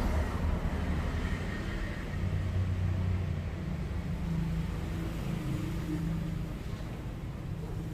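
Radio-controlled rock crawler truck driving, a continuous low rumble with faint motor tones that shift in pitch.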